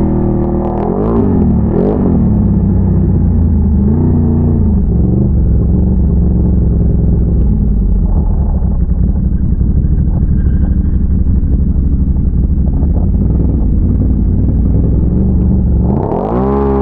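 A big-bore Can-Am Renegade ATV's V-twin engine running under way. It is revved up and back down a few times in the first five seconds, runs steadily, then revs up sharply near the end.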